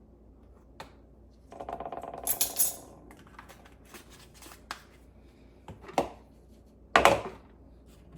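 Spice jar and measuring spoon being handled while spices are measured out: a short rattle, then clinks and several sharp knocks, the loudest near the end.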